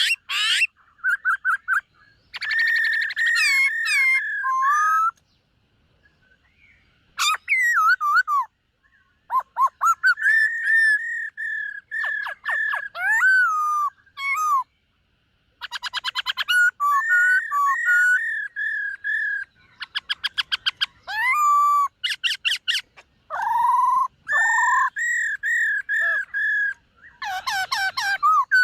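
Black-throated laughingthrush singing loud phrases of clear whistles and rapid trills, each phrase a few seconds long, with short pauses between them.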